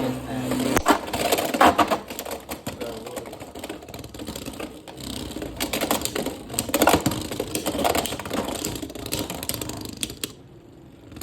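Beyblade X spinning tops battling in a plastic stadium: rapid, irregular clattering clicks as the tops collide and scrape, dying away about ten seconds in when the spinning stops.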